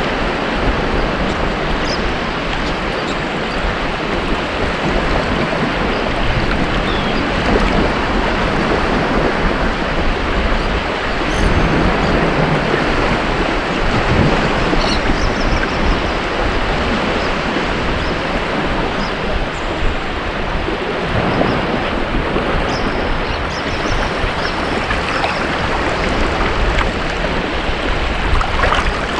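Ocean surf washing onto a beach: a steady rushing with gentle swells in loudness.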